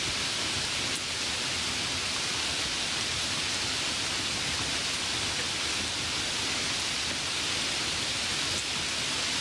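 A steady, even hiss that holds level throughout, with no distinct events.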